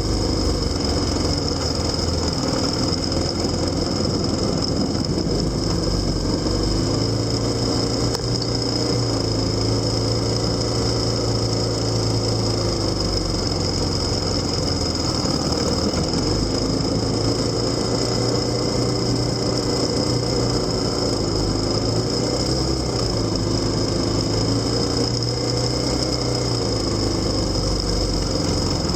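Motorcycle engine running on the move, its pitch rising and falling several times as the throttle and speed change.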